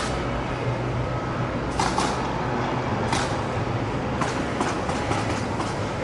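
Amusement ride machinery running under test: a steady low hum with scattered metallic clicks and clanks, several in quick succession near the end.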